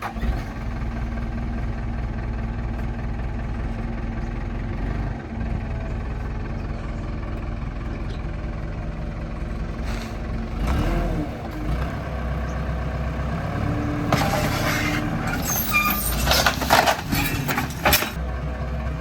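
Heavy machinery engine running steadily, with louder bursts of hiss and clatter about ten seconds in and again through the last few seconds.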